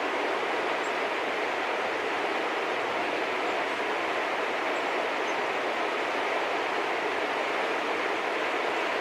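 A steady, even rushing noise of the outdoors, with no distinct calls or knocks standing out.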